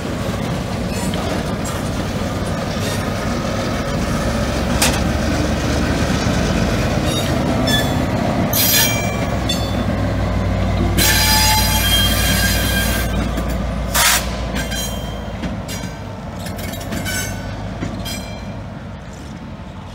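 EMD MP15DC switcher locomotive's diesel engine running as it pulls boxcars over a road crossing, with the cars' wheels squealing against the rails, loudest and longest around the middle. There are a few sharp clanks from the cars.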